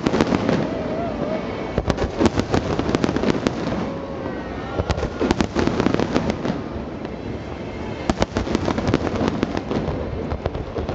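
Aerial fireworks bursting in quick crackling clusters, with the densest strings of sharp cracks about two seconds in, again about five seconds in, and near eight to nine seconds in. Faint crowd voices are heard under the cracking.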